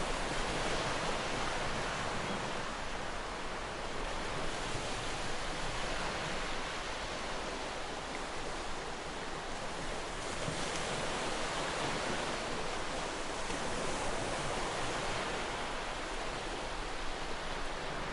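Sea waves breaking and washing on a shore in a steady rush, swelling and easing every few seconds, with some wind.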